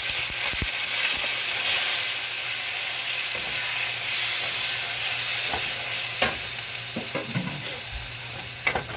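Chicken thigh pieces sizzling in hot canola oil in a wok, the sizzle starting loud and slowly easing off. A few sharp knocks sound from about six seconds in.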